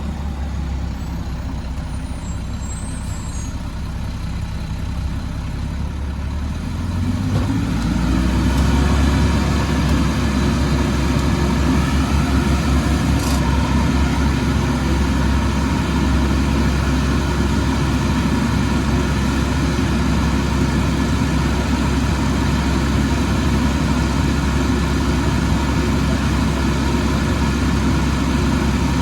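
Garbage truck's diesel engine running close by, growing louder about seven seconds in and then running steadily.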